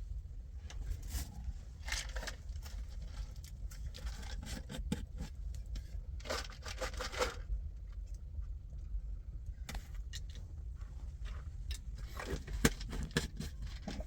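Irregular scraping and crackling, in short strokes with scattered clicks and one sharper click a little before the end, over a steady low rumble.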